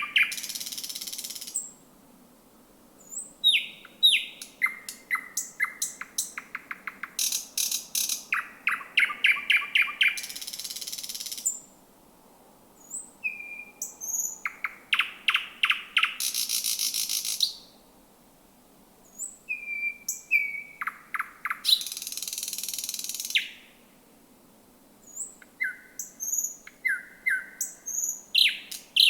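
Thrush nightingale singing: phrases of rapid, sharply repeated clipped notes and rattles, each ending in a loud, dry, buzzy trill, with short pauses between the phrases. A faint steady low hum lies underneath.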